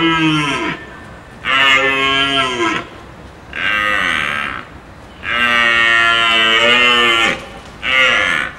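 Cattle mooing: a run of drawn-out calls, each about a second long with short pauses between, and one longer call of about two seconds near the middle.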